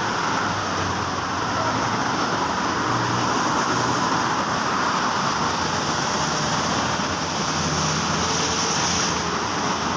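Steady hiss of rain and road traffic on wet roads, a continuous even wash of noise with a faint low engine hum underneath.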